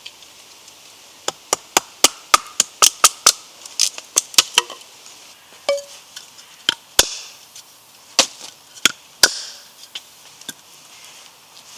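Wood being chopped for a small campfire: a quick run of about a dozen sharp strikes, then several more spaced a second or so apart.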